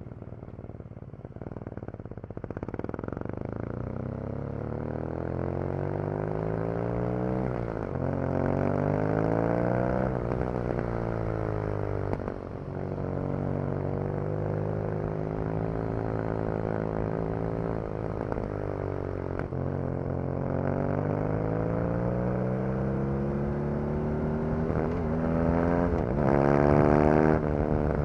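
BMW R nineT Racer's 1170 cc air/oil-cooled boxer twin heard onboard under hard riding on track. The revs climb and drop sharply again and again, about every four to seven seconds, with stretches of falling revs in between, as the bike accelerates through the gears and slows for corners.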